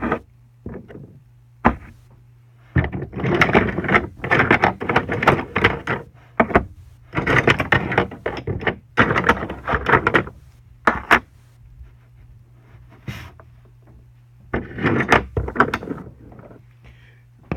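Wooden toy trains and track pieces clattering and knocking as they are handled, in several bouts of quick clacks with pauses between, over a low steady hum.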